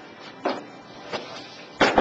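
Three sharp knocks during window glass installation work, spaced under a second apart, the last and loudest near the end.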